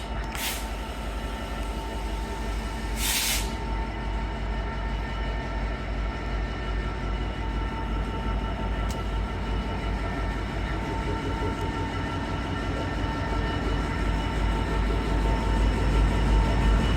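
Class 66 diesel freight locomotive's EMD two-stroke V12 engine running steadily while the locomotive stands, giving a constant low drone with fixed humming tones. Two short hisses of air come near the start, and the engine grows gradually louder over the last few seconds.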